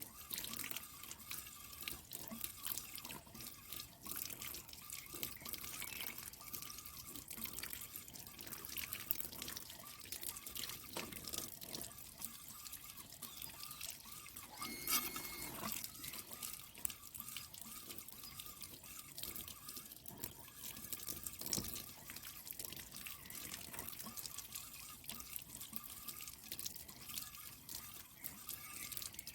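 Water dripping and splashing in many small irregular drops as water-tank filter sheets are rinsed.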